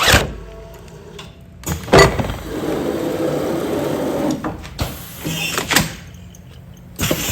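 Automatic container sealing machine cycling. There are sharp clunks at the start and about two seconds in, a steady running stretch after the second clunk, several lighter clicks, and another loud clunk near the end.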